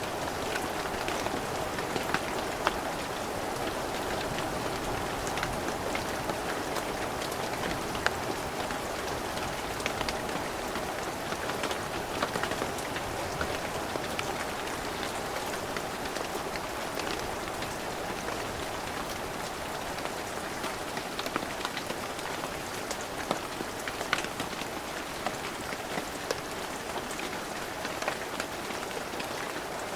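Heavy rain falling steadily, a dense hiss with many sharp individual drop hits.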